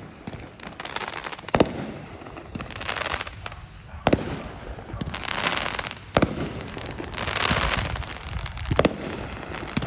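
Consumer fireworks going off: four sharp bangs roughly two seconds apart, with hissing, crackling spells between them.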